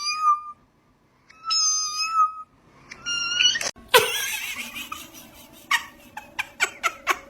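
A cat meowing three times in long, high, level cries, followed about four seconds in by a short burst of noise and then a quick series of sharp clicks.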